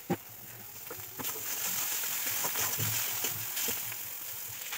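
Spice paste frying in oil in a steel kadai: a steady sizzle that grows a little louder about a second in, with now and then the faint click of a spatula against the pan.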